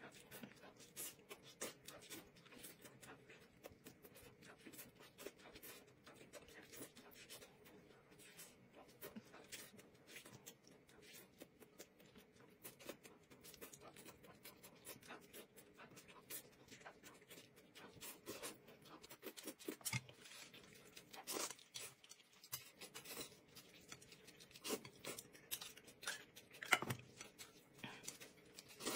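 Faint, close-miked eating sounds: many small wet clicks and smacks of chewing as a whole cooked fish is bitten into by hand, with a few sharper knocks near the end.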